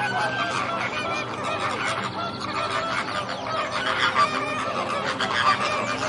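A flock of flamingos honking, many goose-like calls overlapping without a break.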